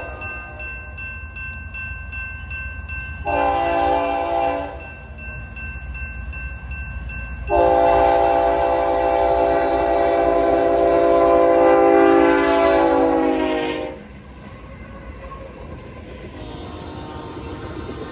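A freight diesel locomotive's air horn sounding a chord: a short blast a few seconds in, then a long blast of about six seconds whose pitch sags slightly as it ends, the close of a grade-crossing horn sequence. A steady low rumble of the approaching train underlies it and grows toward the end.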